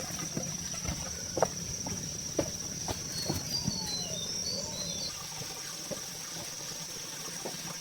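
A steady high-pitched insect drone, with scattered light knocks and a brief run of small bird chirps about three seconds in.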